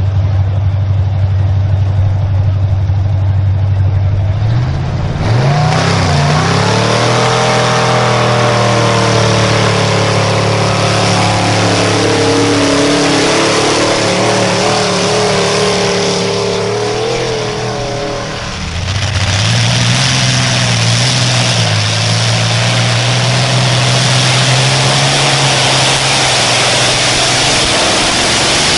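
Pulling vehicle's engine idling steadily. About five seconds in it revs up and runs hard under load, with a loud rushing noise above it. It falls back briefly about two-thirds of the way through, then revs up again and holds.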